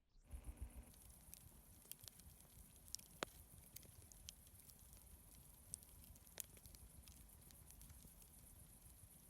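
Faint campfire crackling: a steady low hiss with scattered sharp pops, the sharpest a little after three seconds in and again past six seconds.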